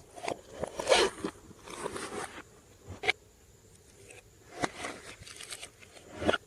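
Glossy slime being squished and mixed: irregular wet crackles, squelches and sharp clicks, with short quiet gaps between them.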